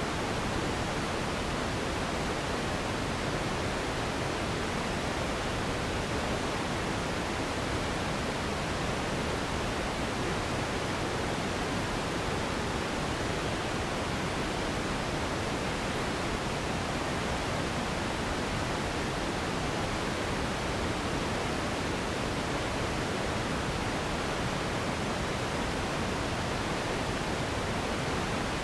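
Steady relaxation noise for sleep, an even hiss that is fuller in the lows than the highs and never changes.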